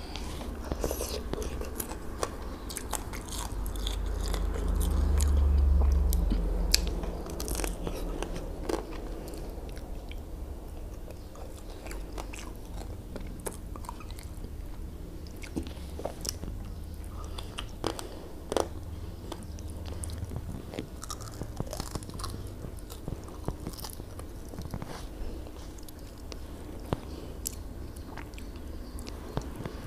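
Close-miked chewing of rice and grilled fish eaten by hand, with short sharp mouth clicks and smacks scattered throughout. A low rumble swells and fades about four to seven seconds in.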